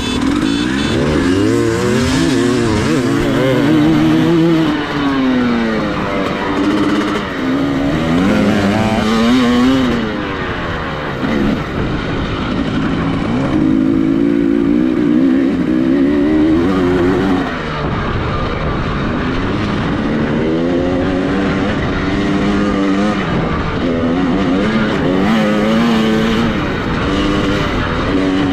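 Dirt bike engine being ridden hard, its pitch climbing and dropping over and over as the throttle is opened and shut.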